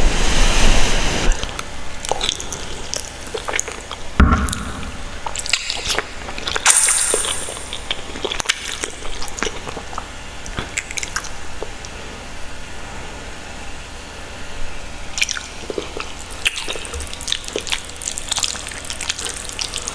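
Close-miked eating of saucy Buldak ramen noodles: wet, sticky chewing and slurping with many small mouth clicks, and a few louder bursts near the start and around four and seven seconds in.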